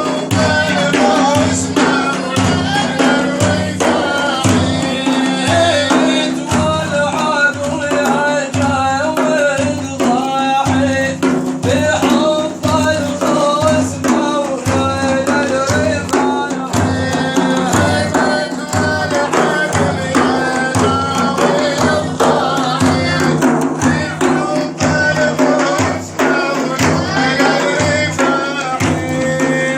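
Male praise singer chanting an Arabic devotional song over a steady low percussion beat.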